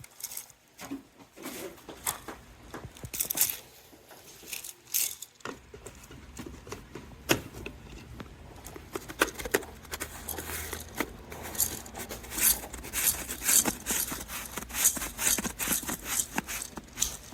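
Handling noise from a shower head, its parts and packaging: irregular clicks, rattles and rustling, sparse at first and coming thick and fast in the second half.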